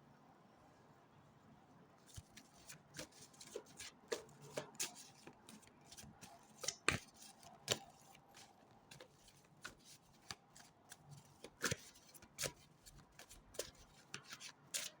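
A deck of fortune-telling cards being shuffled and laid out: a string of soft, irregular card flicks and slaps, starting about two seconds in.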